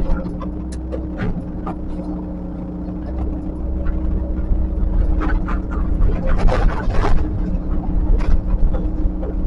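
Heavy earthmoving machine's diesel engine running steadily, with several sharp knocks in the second half.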